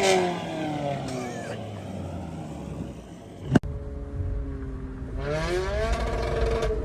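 Toyota Camry's engine through an aftermarket exhaust. The exhaust note falls as the car comes off the throttle, then after a sharp click it settles and rises again as the engine is revved or accelerated.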